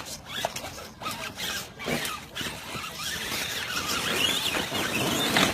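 Electric motor and gears of a radio-controlled rock crawler whirring in uneven spurts, rising and falling in pitch as it is throttled over the course. The sound grows louder in the second half and cuts off sharply at the end.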